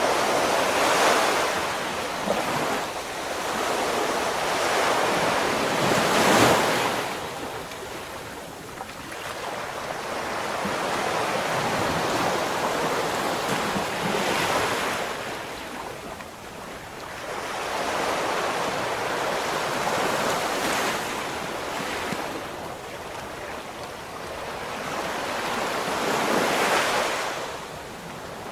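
Ocean waves breaking and washing up the shore, the surf swelling and ebbing every several seconds, with wind buffeting the microphone.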